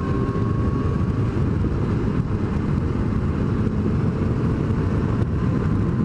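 Motorcycle riding on the road: a steady low rumble of engine and wind on the microphone.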